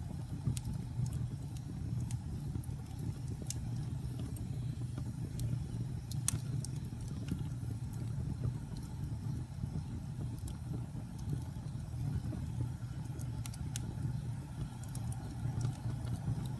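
Wood fire burning in a fireplace: a steady low rumble of the flames with scattered sharp crackles, one louder pop about six seconds in.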